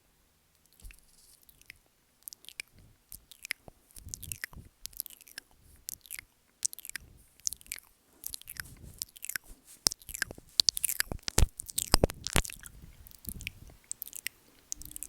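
Close-miked ASMR mouth sounds on the microphone: a run of wet clicks and smacks, sparse at first, then growing denser and louder, with the sharpest pops about eleven and twelve seconds in.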